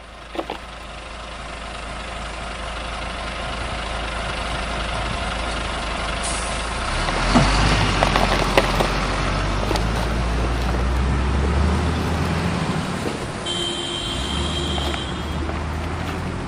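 A heavy vehicle's engine running steadily and growing louder. It has a burst of clattering about seven to nine seconds in, and a high tone held for about a second and a half near the end.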